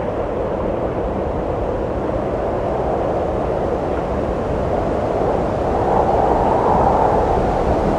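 Wind blowing as a steady rushing noise, swelling into a stronger gust a little past halfway.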